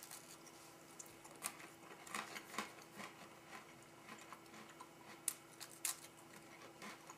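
A person chewing a dry MRE vegetable cracker topped with cheese spread: faint, irregular crunching clicks, a few of them sharper.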